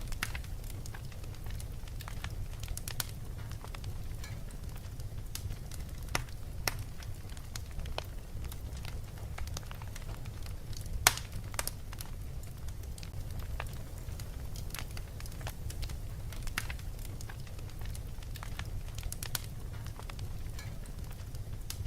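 Fireplace crackling: scattered sharp pops and snaps over a steady low rumble, with one louder pop about halfway through.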